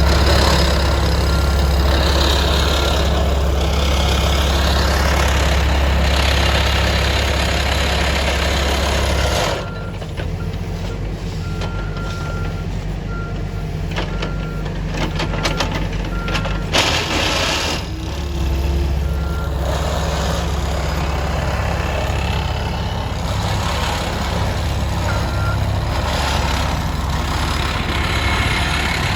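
Heavy construction machine's engine running, with its backup alarm beeping about once a second. The engine drops back about a third of the way in and picks up again a little past the middle.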